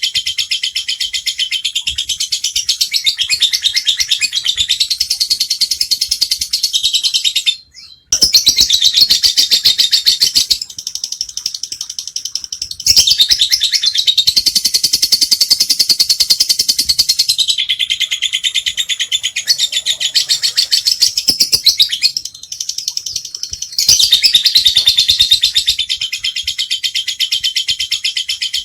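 Lovebird chattering in a long, very fast, shrill run of notes with almost no pauses: the continuous 'ngekek' song. It breaks off for an instant about eight seconds in and has a couple of quieter spells.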